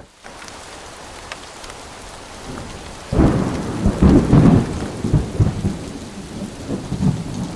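Steady rain falling, then a long rolling rumble of thunder that breaks in suddenly about three seconds in and keeps rumbling in swells.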